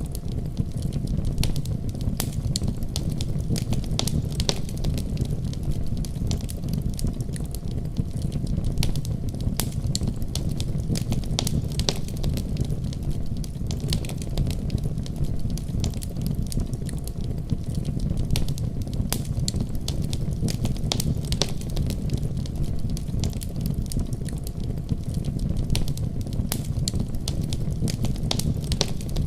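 Wood fire crackling, with frequent irregular sharp pops and snaps, over a steady deep rumble of a winter storm.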